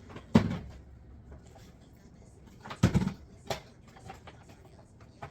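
Items being handled and set down on a hard surface: three separate knocks, one about half a second in and two close together around three seconds in.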